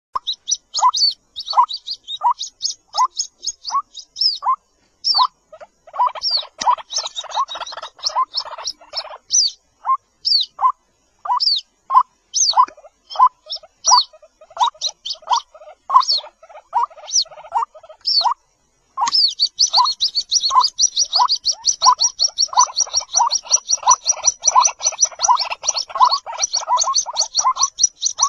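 White-breasted waterhen chicks calling: short, high chirps that drop in pitch, repeated about twice a second. In places they thicken into a dense, overlapping chorus.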